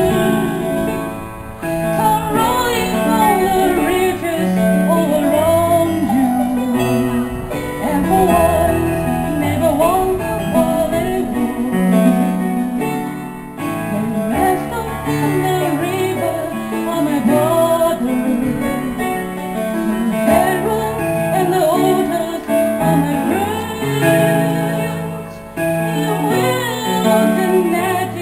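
A song with a singing voice over guitar accompaniment.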